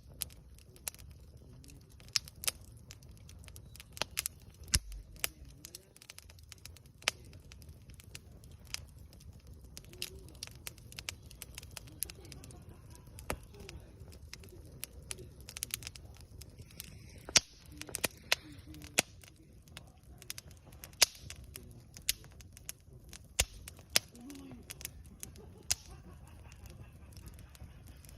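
Wood campfire crackling: irregular sharp pops and snaps, several of them loud, over a steady low rumble of the burning fire.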